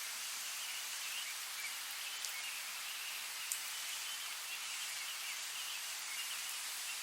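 Steady rain falling in a forest, an even hiss with a few sharp drips, the loudest about three and a half seconds in. Faint high bird chirping runs underneath.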